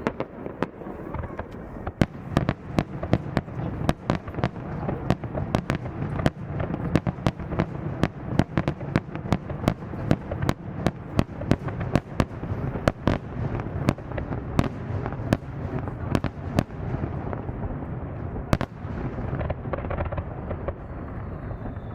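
Aerial fireworks display: a dense, rapid run of sharp bangs and crackles, several a second, over a continuous low rumble of shell bursts. A thin high tone comes in near the end.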